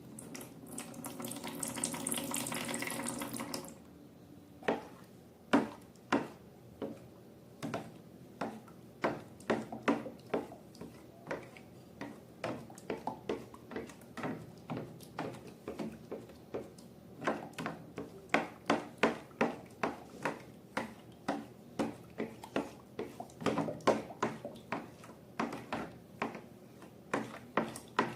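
Liquid pouring into a container for the first few seconds, then a long run of sticky, wet clicks and squelches as slime is stirred and mixed, quickening toward the end.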